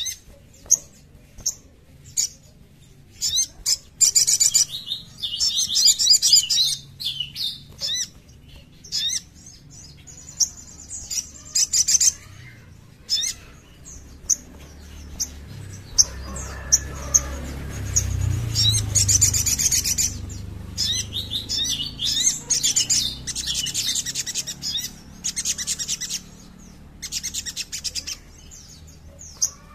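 Sogon (sogok ontong, a little spiderhunter) calling: a run of sharp, high chips broken by several bursts of fast, high twittering. A low rumble underlies the calls for a few seconds in the middle.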